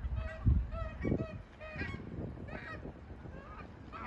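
Canada geese honking: a string of short, repeated honks about every half second. Two low thumps about half a second and a second in are the loudest sounds.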